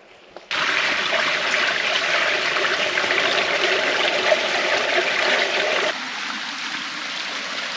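Creek water rushing over rocks, a steady loud rush that starts abruptly about half a second in and drops a little in level about six seconds in.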